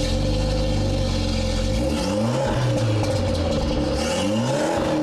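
BMW 5 Series' 2.0-litre turbocharged four-cylinder engine being free-revved. It holds a steady fast idle, then climbs and drops back twice. It sounds through an exhaust that the presenter takes to be modified, since he thinks a standard exhaust would not sound like this.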